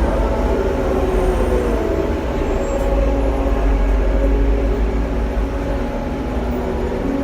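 Hong Kong double-decker electric tram running, heard from on board: a steady low rumble with a hum of several tones, one dipping slightly in pitch about a second in.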